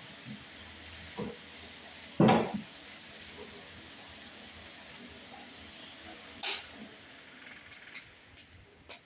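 A loud knock about two seconds in and a sharp clatter about six and a half seconds in, over a steady hiss: things being handled and set down while a refrigerator is cleaned.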